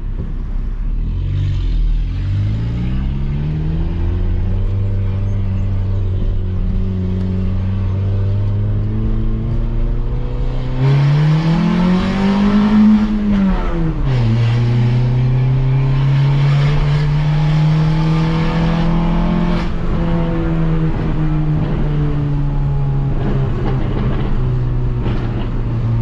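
Peugeot 206 1.4's four-cylinder engine through a straight-pipe exhaust with no muffler, pulling away and cruising. Revs rise a little after a second in and hold, climb again to a peak near the middle, then fall sharply at a gear change and settle into a steady cruise.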